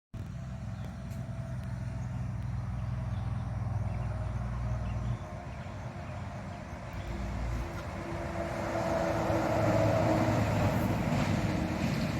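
A vehicle's engine running: a low steady hum that eases about five seconds in, then swells again toward the end.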